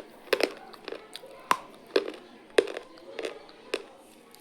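Crunchy noodles crunching close to the microphone, sharp brittle cracks about every half second, seven in all.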